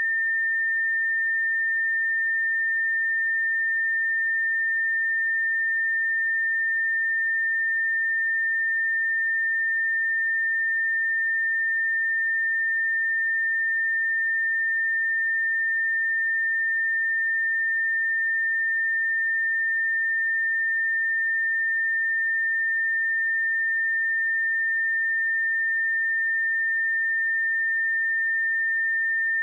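A pure 1806 Hz sine-wave test tone, one steady unwavering pitch at constant level.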